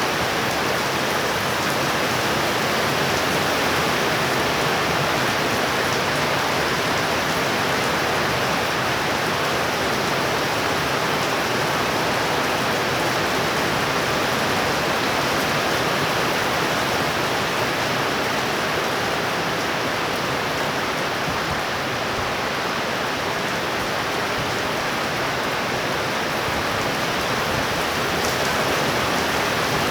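Heavy rain falling steadily in a thunderstorm downpour, a constant even hiss with no thunderclaps.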